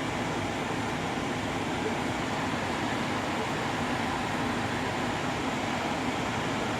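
Steady, even cabin noise inside a 2019 Subaru Ascent with the engine idling: a constant rush of air from the climate-control fan over a low engine hum.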